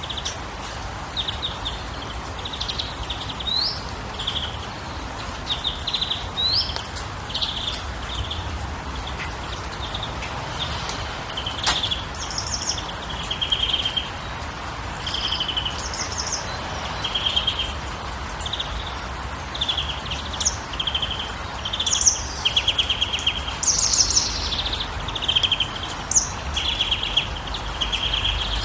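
Songbirds chirping and calling in quick short phrases, with now and then a rising chirp, over a steady background hiss. A single sharp click about twelve seconds in.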